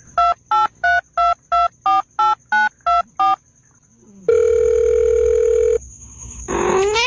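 Telephone keypad dialing tones: eleven short beeps in a quick, even run, followed by a steady tone lasting about a second and a half. Near the end a cat's meow rises in pitch.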